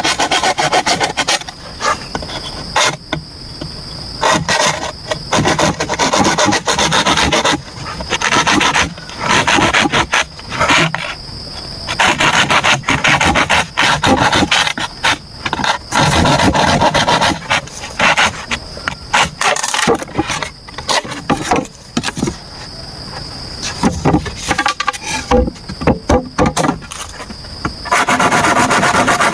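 A hand tool working bamboo in rasping strokes, coming in runs broken by short pauses.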